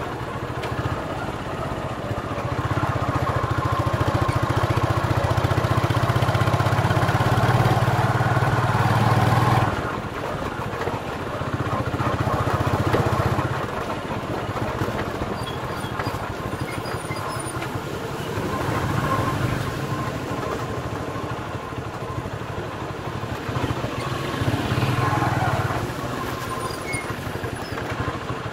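Motorcycle engine of a tricycle running on the road, heard from the sidecar. It grows louder several times as the rider speeds up and drops back when he eases off, most strongly over the first ten seconds.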